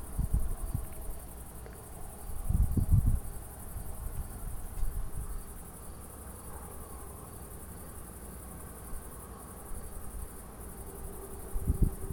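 Crickets chirring steadily in a high, continuous band. Short low rumbles come near the start, about three seconds in and again near the end.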